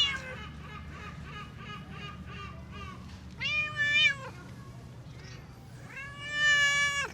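Cat meowing twice: a short meow about three and a half seconds in, and a longer, drawn-out meow near the end.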